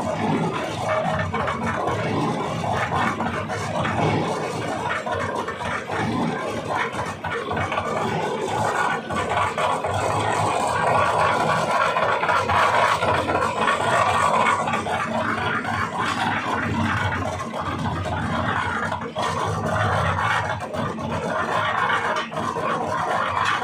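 Tractor-driven transit mixer running, with a continuous rough, scraping churn from its rotating drum over the tractor engine.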